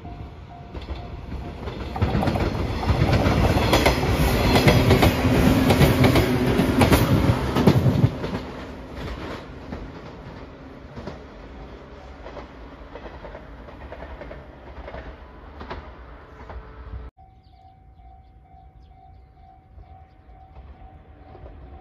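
A JR 115 series electric train passes close by, its wheels clicking over the rail joints. It is loudest for several seconds, then dies away as it runs off. After a sudden cut near the end, a level crossing warning bell dings steadily.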